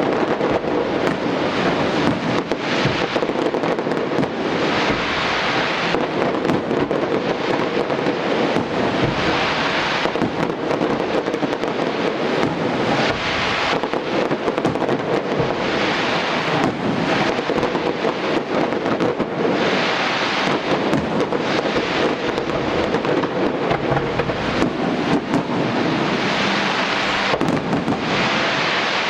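Fireworks display: a continuous barrage of bangs and crackling, with stretches of high hissing crackle every few seconds.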